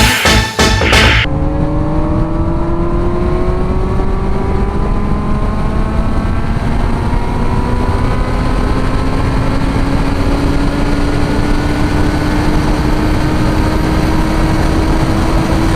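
Kawasaki Z1000 inline-four motorcycle engine pulling steadily in one gear, its pitch climbing slowly and evenly as the bike gains speed, with wind rush underneath. A short snatch of music ends about a second in.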